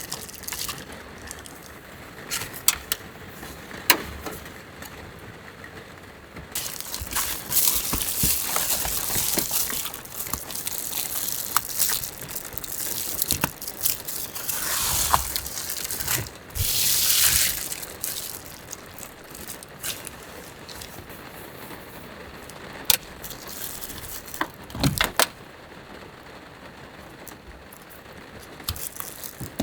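Rustling and crinkling with scattered clicks and knocks.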